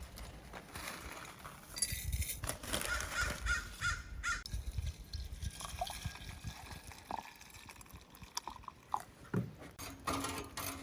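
A bird calling several times in quick succession, among scattered clicks and knocks.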